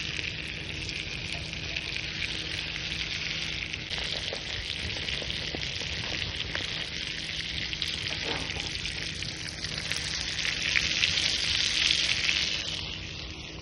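Thick-cut steak sizzling on a grill over a wood fire pit, with small crackles through the hiss. The sizzle swells about ten seconds in, then falls away near the end.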